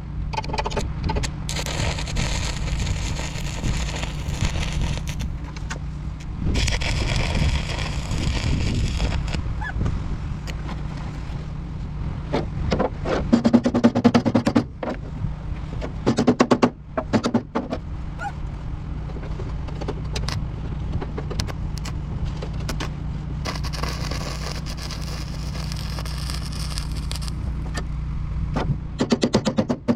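Arc welding on steel in runs of a few seconds of crackling hiss, three times, over a steady low machine hum. A cluster of sharp metal knocks comes about halfway through.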